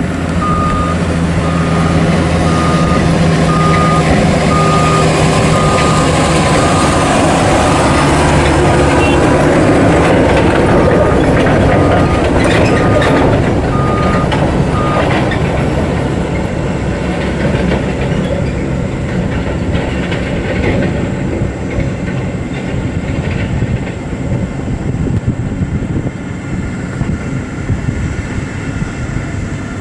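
Heavy truck's reversing alarm beeping about one and a half times a second over its diesel engine running; the beeping stops about halfway through.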